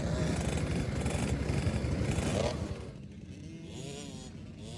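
Dirt bike engine noise. It is loud and rough for the first two and a half seconds, then drops away to a quieter motocross bike revving up and down in pitch.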